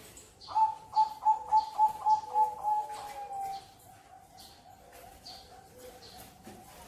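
Zebra dove (perkutut) cooing: a quick run of about eight clear notes starting about half a second in, ending in a longer drawn-out note. Other doves coo softly underneath, with faint chirps from other birds.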